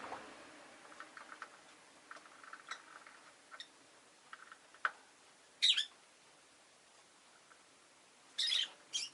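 Peach-faced lovebird calling: scattered quiet chirps and clicks, then a loud, sharp high chirp about halfway through and two more close together near the end.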